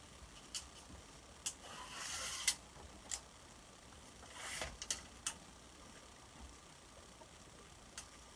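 Scattered light knocks and clicks, about seven in all and irregularly spaced, the loudest about two and a half seconds in, with two short rustling scrapes at about two and four and a half seconds.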